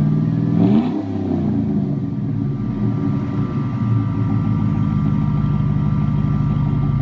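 Exhaust of a 2007 GMC Sierra's 6.0L Vortec Max V8 through a Flowmaster Super 10 muffler with dual outlets. The engine comes off a rev and falls back about a second in, then settles into a steady idle.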